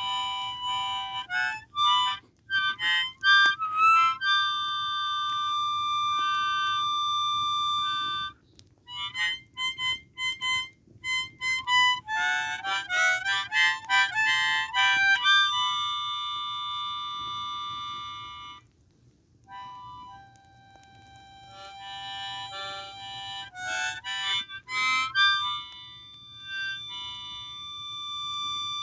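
Blues harp (10-hole diatonic harmonica) played in single notes, mixing quick runs of short notes with long held notes, with a brief pause about two-thirds of the way through.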